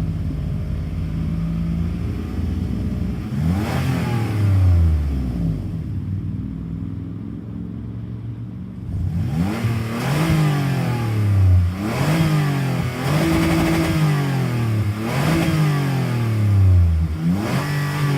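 Toyota 2GR-FE 3.5-litre V6 in a 2007 Sienna minivan, warm, being revved by hand: one rev a few seconds in, then settling to a lower, quieter run, then a string of about five quick throttle blips in the second half, the pitch sweeping up and falling back each time, one held briefly at the top.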